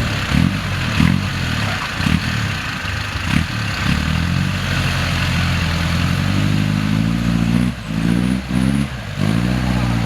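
Off-road 4x4's engine revving up and down under load, with a steady rushing noise over it. The engine note drops briefly three times near the end.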